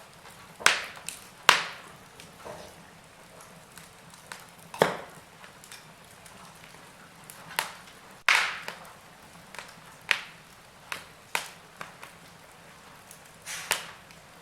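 Wood fire crackling: irregular sharp pops and snaps, about a dozen, each dying away quickly, over a faint steady background. The loudest pops come near the start and about eight seconds in.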